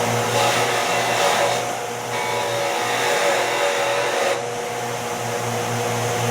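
Motor of a bench machine tool running steadily, with a low hum and a steady whine over a motor hiss, changing slightly twice.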